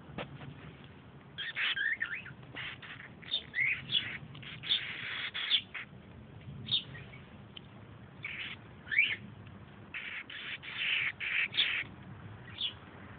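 Baby bird chirping, with short high calls in irregular clusters starting about a second and a half in, some sliding up or down in pitch.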